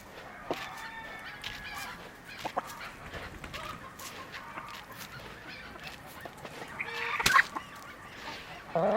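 Chickens clucking and calling in short scattered calls, with a sharp knock about seven seconds in and a loud burst of clucking near the end.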